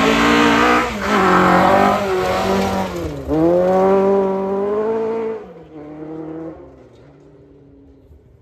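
Rally car engine at full throttle, passing and accelerating hard, with a gear change about a second in and a brief lift and pick-up about three seconds in. It then fades away over the last few seconds.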